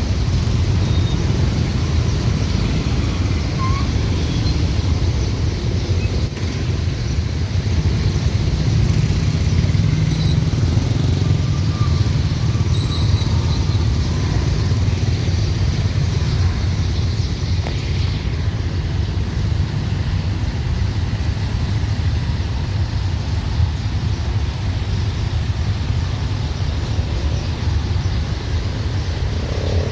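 Dense city rush-hour traffic: a steady rumble of motorbike and car engines moving past, with no pauses.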